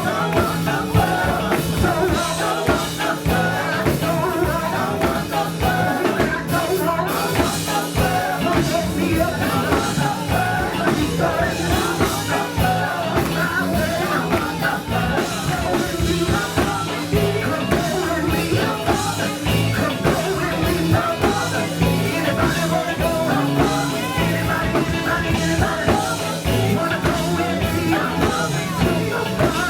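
Live gospel band playing a song with singing over drums and bass guitar, loud and continuous.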